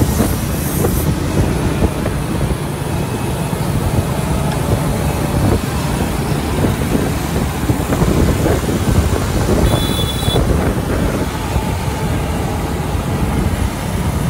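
Heavy truck and road traffic noise: a steady low rumble of engine and tyres.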